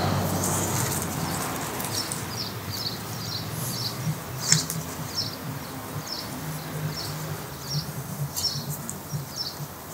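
Small birds chirping, short high chirps about twice a second, over a low steady hum, with one sharp click about four and a half seconds in.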